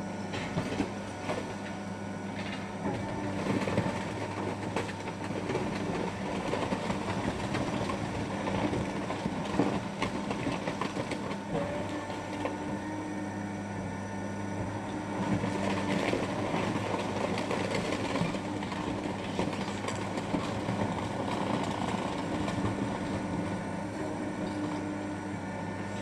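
Car-body crushing machinery at work: a steady machine hum with irregular crackling and knocks of sheet metal being crushed, heavier at times.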